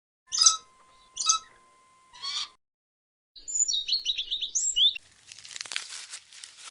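Bird calls: three short, loud calls about a second apart, then a rapid high twittering. About five seconds in, this gives way to a crackling, rustling noise.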